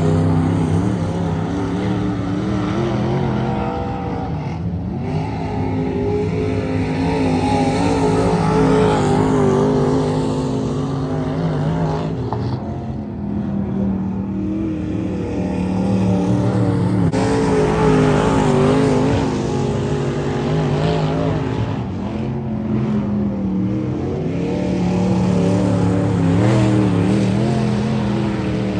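Several race car engines running laps on a dirt oval track. The sound swells and fades as the field comes around, about every eight to nine seconds.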